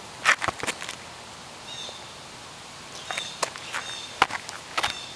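Scattered sharp clicks and knocks of a lawn tractor's hood being handled and worked loose by hand, with a few faint bird chirps.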